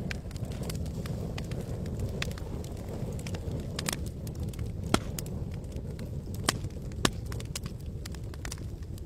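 Wood campfire crackling: irregular sharp pops and snaps over a steady low rush, with the loudest pops about five, six and a half and seven seconds in.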